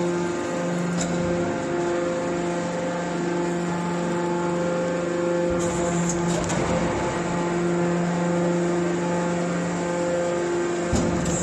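Hydraulic scrap baler running: the steady hum of its motor and hydraulic pump, with a few short metallic knocks, one about a second in, a cluster around the middle and one near the end.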